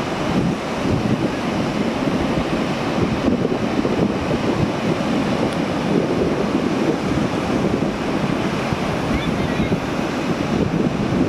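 Steady rush of sea waves, with wind buffeting the microphone.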